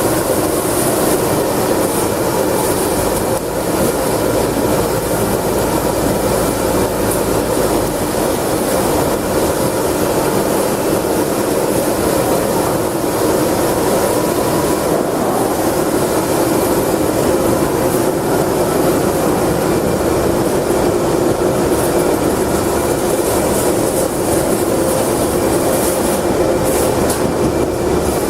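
Industrial slicing machine running steadily with a continuous mechanical clatter as it cross-slices frozen ginger.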